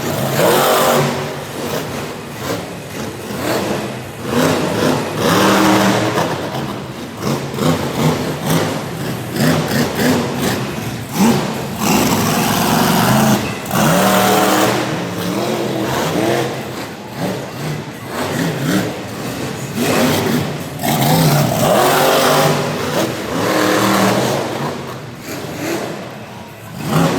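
Monster truck engine revving hard in repeated surges, the pitch and level rising and falling every few seconds.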